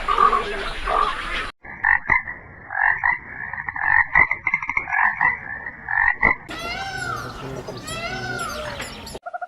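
A sequence of animal calls. About five seconds of short calls repeated in quick irregular pulses, then an abrupt change to a dense chorus of rising-and-falling chirps that stops just before the end.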